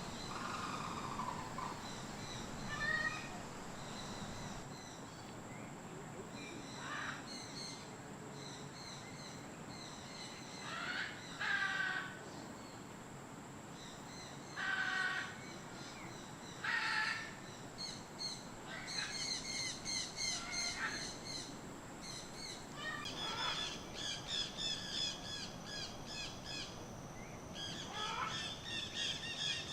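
Birds calling: separate short calls, several of them gliding downward in pitch, in the first half, then bursts of rapid repeated chirping through the second half. A faint steady high tone runs underneath.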